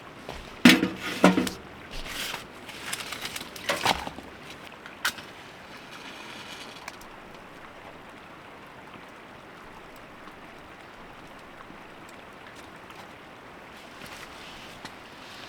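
A few loud knocks and clatters in the first five seconds, the loudest about a second in, then the steady rushing of a small creek.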